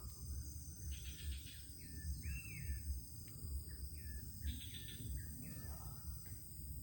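A small animal calling over and over in the wild: each call is a short rasping trill followed by a hooked note, about every two seconds. Under it runs a steady low rumble.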